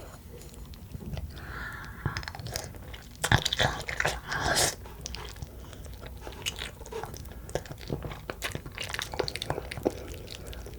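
Close-miked eating of Pororo black bean noodles: wet chewing with many small mouth clicks and smacks, the loudest bites about three to five seconds in.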